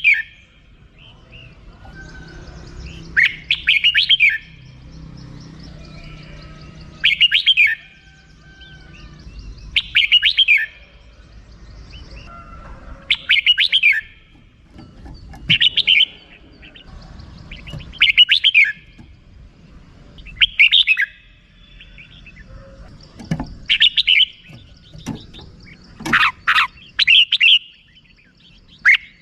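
Red-whiskered bulbul giving its chattering 'rik' call: short bursts of quick, rattling notes, about a second long, repeated every two to three seconds.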